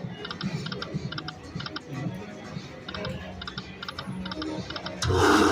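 Lightning Link video slot machine's spin sounds: clusters of short, high electronic tick tones repeating while the reels spin, with a louder burst of sound about five seconds in.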